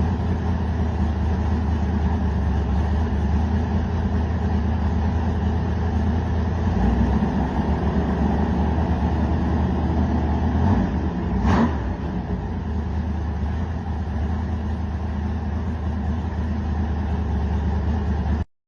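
Small-block Chevy 400 V8 running steadily, with one quick rev up and back down about two-thirds of the way through; the sound cuts off abruptly near the end.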